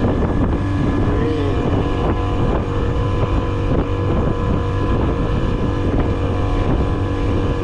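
Small boat's motor running steadily, a constant drone whose pitch holds steady throughout.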